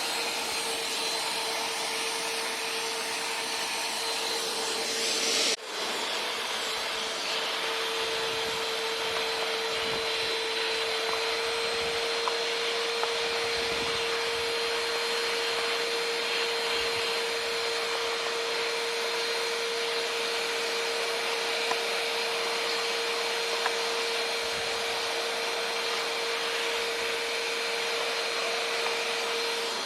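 Vacuum cleaner running steadily, a constant whine over a rush of airflow, as it sucks dirt off a Yamaha Blaster ATV; the sound drops out for an instant about five and a half seconds in.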